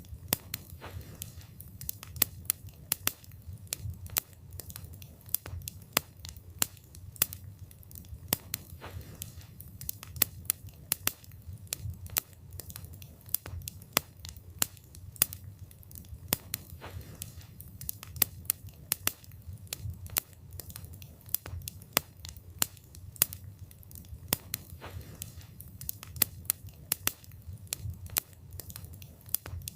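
Wood fire burning, with frequent sharp irregular crackles and pops from the wood over a steady low rumble of flame.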